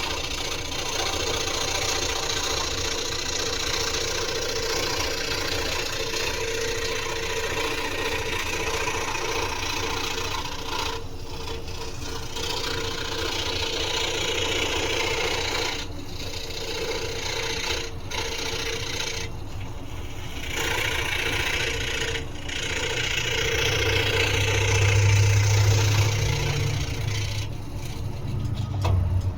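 Scroll saw running and cutting through wood, a steady buzzing with several brief dips where the cut eases, and a louder low hum for a few seconds near the end.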